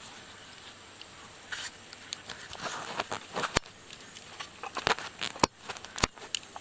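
Small wood fire crackling, busier after the first second or so, with several sharp loud pops in the second half.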